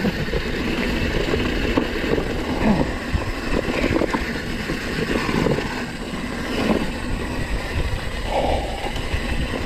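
Downhill mountain bike ridden down a dirt trail, heard from a chest-mounted camera: wind rushing over the microphone and tyres running on dirt, with the bike rattling and knocking over bumps many times.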